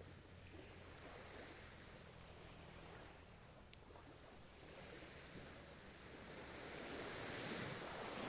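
Faint ocean waves washing on a shore, with one wave swelling louder from about six seconds in and peaking near the end.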